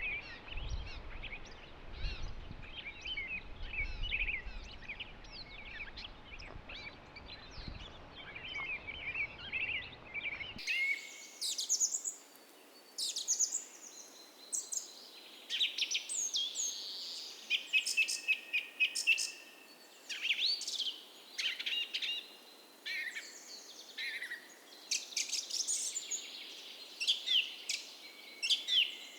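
Morning chorus of several songbirds, many short chirps and trills overlapping. About ten seconds in, the sound changes abruptly: the low rumble underneath drops out and the songs come through brighter and louder.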